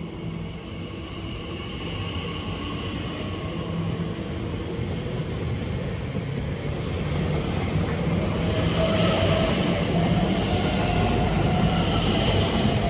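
An Elizabeth line Class 345 electric train pulls away from a station. Its running noise builds steadily as it gathers speed, and a whine climbs slowly in pitch through the second half.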